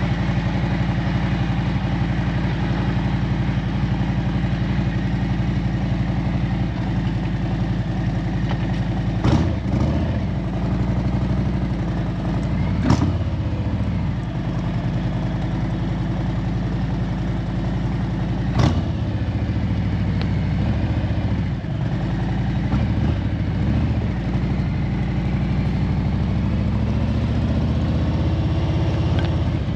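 A vehicle engine running steadily while driving, with a few sharp knocks or clicks spread through.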